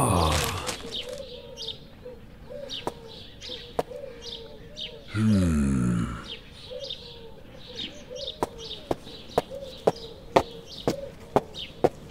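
Birds chirping and cooing, a street ambience. A loud sudden sound comes right at the start, a low, loud pitched sound lasts about a second near the middle, and sharp taps come about twice a second near the end.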